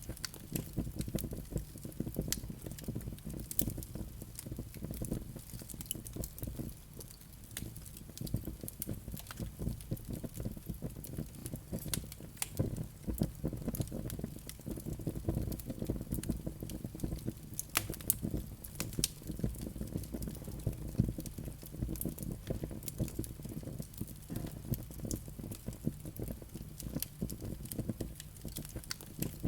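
Fireplace fire crackling, with irregular sharp pops and snaps scattered through a steady low rumble of the flames.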